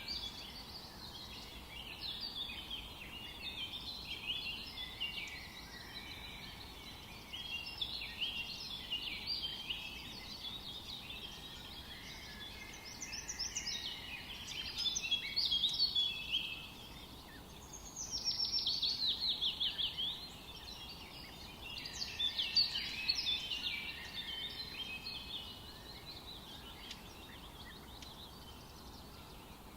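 Several songbirds singing together in a forest dawn-chorus style, overlapping chirps and trills, with a rapid trill of repeated notes a little past halfway standing out, over a faint steady background hiss.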